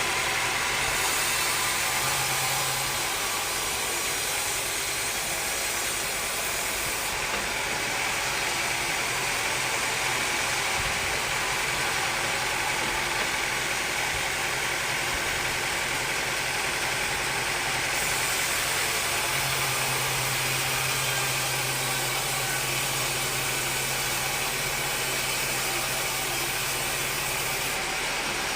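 Sawmill machinery running steadily: an even mechanical drone with a low hum that shifts slightly a few times.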